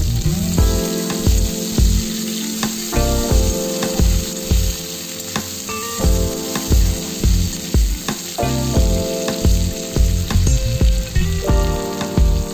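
Chopped onions and tomatoes sizzling in hot oil as they are stirred in a pan with a metal spatula. Background music with a steady beat plays over the sizzle.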